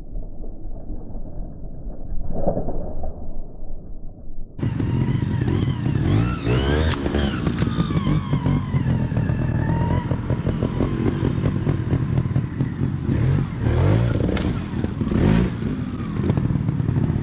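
Trials motorcycle engines revving up and down in short blips as the bikes climb rocks, with some knocks from the bikes on the rock. The first few seconds are muffled; about four and a half seconds in the sound turns clear.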